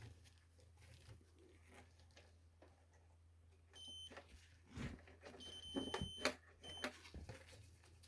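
A homemade continuity tester beeps three times, short, long, short, sounding whenever the probed wire conducts. Clicks and rustles of wires being handled come in between, over a faint steady hum.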